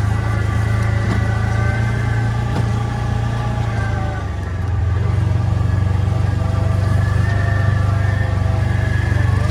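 A motor vehicle's engine running steadily. It briefly drops in level and pitch about four seconds in, then picks back up.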